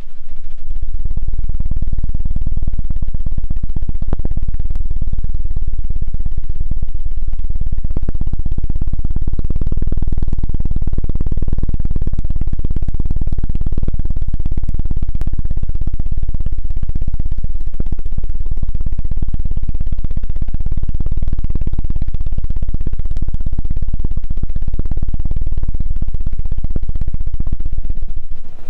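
ASMR "helicopter" ear-cleaning trigger: rapid, continuous fluttering strokes against the microphone, giving a loud, low, fast thrumming like rotor blades. It starts abruptly and cuts off abruptly.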